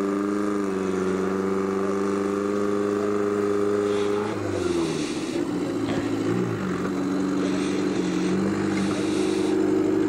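Daihatsu F10 off-roader's engine running under load as it crawls over dirt mounds, holding a steady pitch. The revs drop about four seconds in, dip and pick up again about two seconds later, then hold steady.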